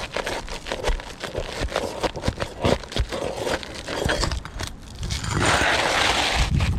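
Roof shingles being scraped and pried loose, with rapid crackling and clicking, then a longer, louder scrape about five seconds in.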